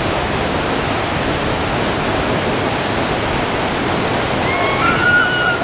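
Whitewater of a two-step river rapid rushing steadily. Near the end a high voice calls out over it.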